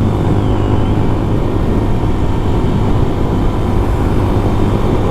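CFMOTO Papio SS's 126cc single-cylinder four-stroke engine running steadily while the bike is ridden, with wind rushing over the microphone. The engine is being broken in, so it is kept below 6,000 rpm.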